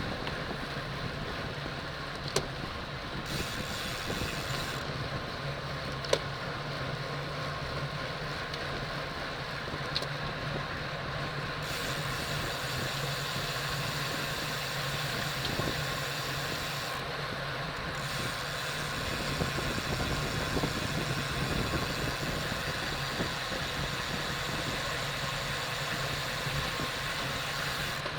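Wind and road noise from a camera riding on a road bike racing at speed: a steady rush with a low hum, broken by a few sharp clicks.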